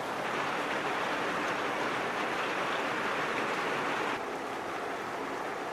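Steady rain falling, an even hiss of drops that steps down a little in level about four seconds in.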